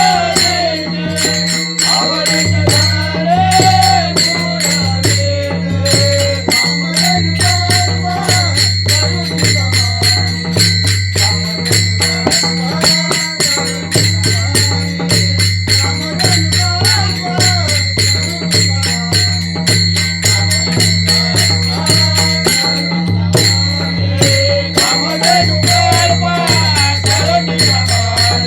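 Marathi devotional abhang music from a kirtan: small hand cymbals clashing in a fast, steady rhythm over a low pulsing drum, with a wavering melody line.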